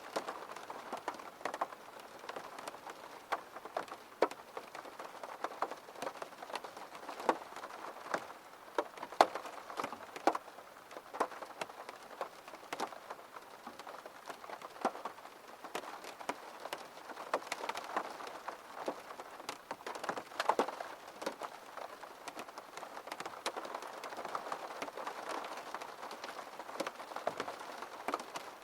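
Steady rain, with many irregular sharp drops striking a hard surface over the constant patter.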